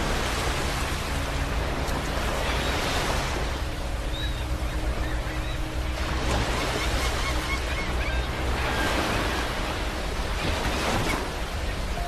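Sea waves breaking on a beach: the surf swells and falls away in repeated surges every two to three seconds. A faint steady low hum runs beneath.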